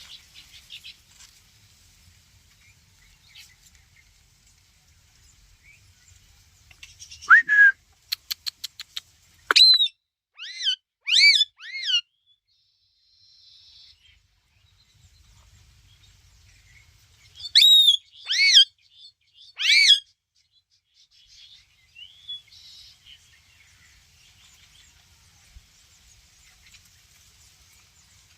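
Ringneck parakeet giving loud, arching whistled calls in two bunches: five or so about a quarter of the way in, led by a quick run of clicks, and three more a little past the middle.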